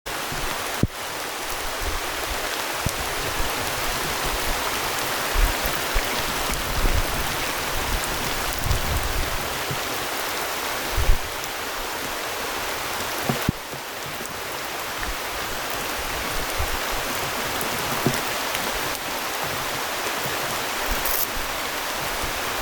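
Steady rain falling on the surface of a spring-fed river, an even hiss, with a few short knocks along the way, the loudest about eleven seconds in.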